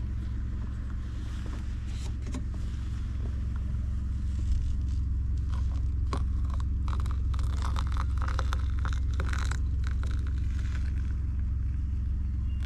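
Steady low rumble of an idling vehicle engine, with a cluster of small clicks and scrapes from handling gear starting about five seconds in.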